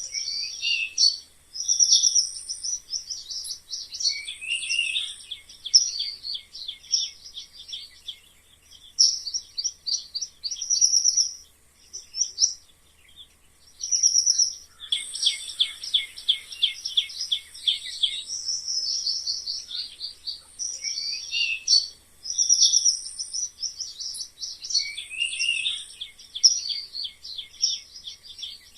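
Mice squeaking: repeated bursts of quick, high-pitched chirping squeaks with short pauses between them.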